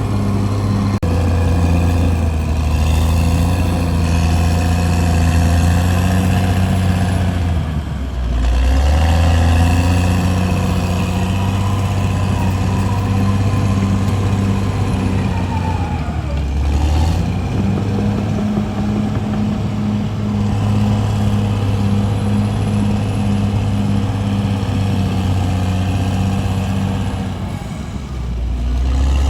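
CAT D6R bulldozer's diesel engine running hard under load. Its pitch dips and recovers briefly about eight seconds in, again around seventeen seconds, and once more near the end, as the load or throttle changes.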